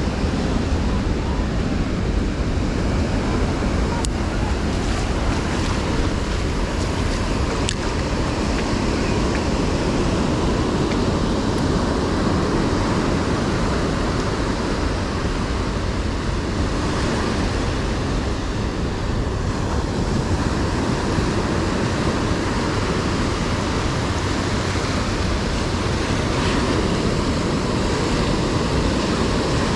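Ocean surf washing onto the beach in a steady rush, with wind rumbling on the microphone.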